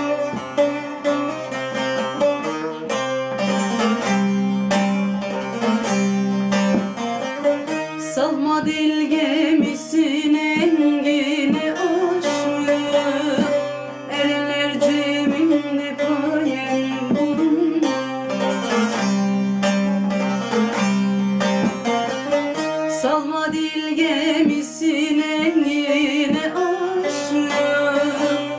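Saz (bağlama) playing an instrumental passage: rapid plucked notes of a folk melody over sustained low tones.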